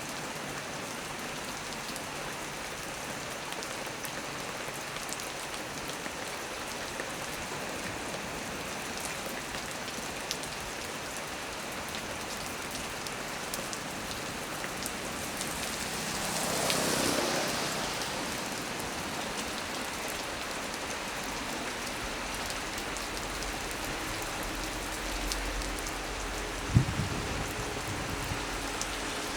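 Heavy rain falling steadily on leaves and surfaces: an even hiss with scattered drop ticks. About halfway through the hiss swells briefly, and near the end there is a single sharp knock.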